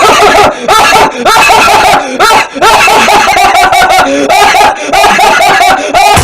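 A very high-pitched, cartoonish snickering laugh sound effect in quick, choppy bursts.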